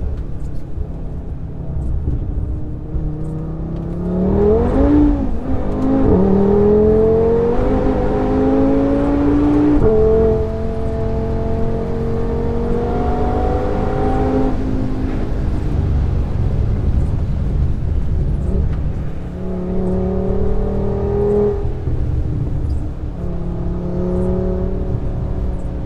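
Cabin sound of an Audi RS3's Stage 2-tuned turbocharged five-cylinder engine being driven hard on track. The engine note climbs and steps down at gear changes in the first half, drops away when the driver lifts off about halfway through, and pulls again near the end. Under it runs a steady rumble of tyre and road noise.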